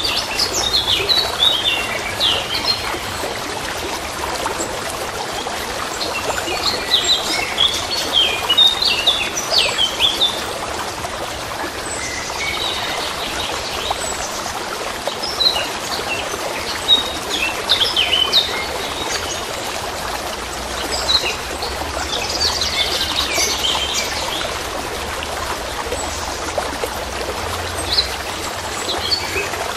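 Songbirds chirping and trilling in scattered bursts over the steady trickling of a stream.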